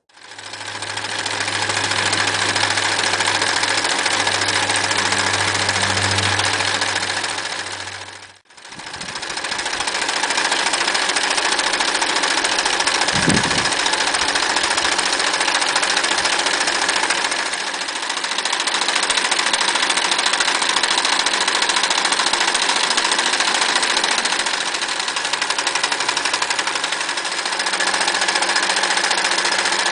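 Frister Rossmann 904 electric sewing machine running fast and stitching, with a steady rapid clatter of the needle mechanism. It stops abruptly about eight seconds in and starts again straight away.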